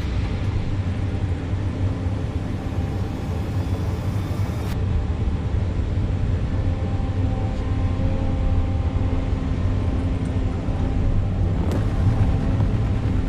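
Large diesel excavator engine running steadily, a constant low rumble with a steady engine hum.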